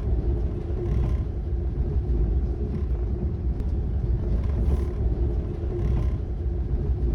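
Steady low rumble of a moving vehicle, with a faint steady hum above it and a few soft ticks.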